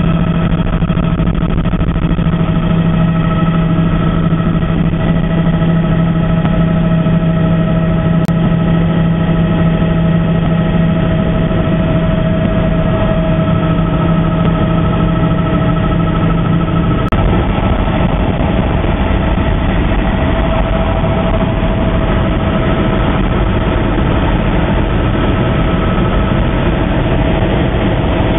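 An engine running steadily and loudly, with a strong low hum and several higher steady tones; the low hum drops out suddenly about two-thirds of the way through while the rest of the drone carries on.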